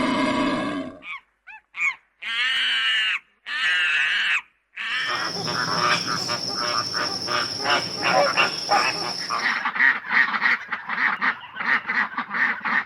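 Waterfowl calling: two loud calls about a second long each, then a long run of quick, repeated calls like a flock chattering.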